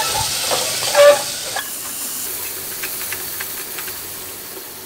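Chopped onion and fresh tomato sizzling in hot oil in a pressure cooker pan, with a spatula stirring and scraping. The sizzle is strongest for the first second and a half, just after the tomato goes in, then dies down to a faint hiss with light scrapes. There is a short loud note about a second in.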